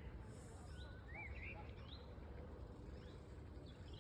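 Faint bird calls: several short rising chirps and a warbling call, over a steady low rumble. A brief high hiss sounds about half a second in.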